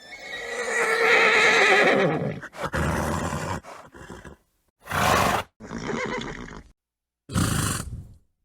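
Horse neighing: one long, wavering whinny of about two seconds, followed by four shorter, breathy horse sounds such as snorts, each stopping abruptly.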